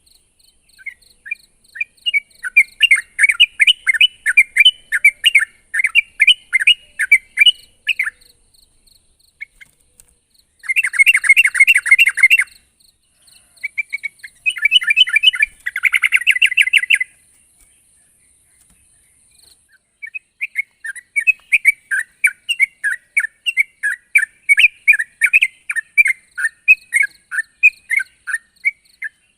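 Yellow-vented bulbul (trucukan) singing in loud, fast phrases of short bubbly chattering notes, each phrase lasting several seconds with brief pauses between, a call meant to provoke rival birds.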